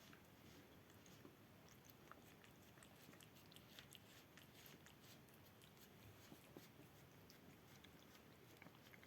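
A cat licking a plate clean: faint, irregular small clicks of its tongue and mouth.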